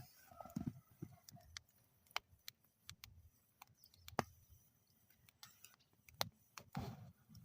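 Wood fire burning in a metal fire bowl, crackling with scattered sharp pops, the loudest about four seconds in and again a little after six.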